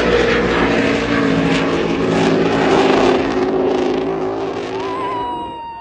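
High-speed racing powerboat engines running flat out under a loud rushing noise, the engine note falling slowly. A high-pitched tone joins near the end.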